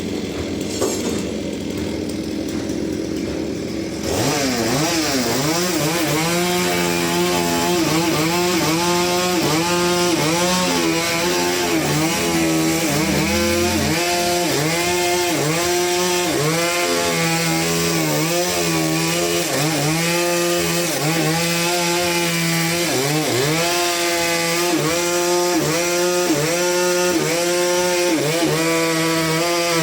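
Chainsaw cutting under load into a large trembesi (rain tree) log, its engine pitch dipping and recovering about once a second as the chain bites. It gets louder about four seconds in.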